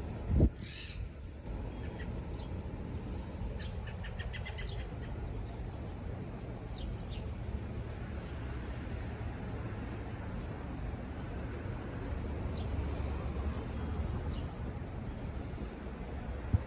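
Birds calling: a short rattling call about four seconds in and faint high chirps scattered throughout, over a steady low background rumble. A loud sudden sound comes about half a second in.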